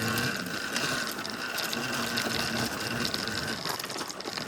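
Tuttio Soleil01 electric dirt bike's motor whining steadily under throttle, with rattling and clicking from the drivetrain over rough ground; the whine drops away about three-quarters of the way through.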